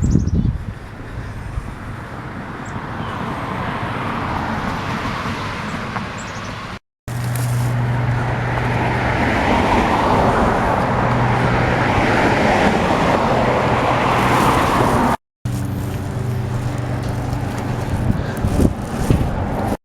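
Road traffic noise: passing cars and running engines, with a low steady engine hum in the middle part. It cuts out abruptly twice, about 7 and 15 seconds in.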